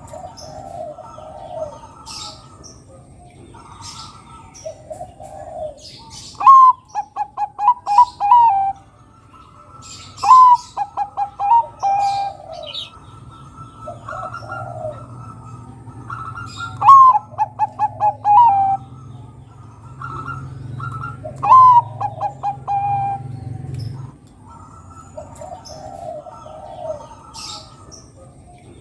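Zebra dove (perkutut, Bangkok type) singing. There are four loud song phrases, each a high opening note followed by a rapid run of about eight short staccato coos. Softer cooing phrases fall in between, with faint high chirps from other small birds.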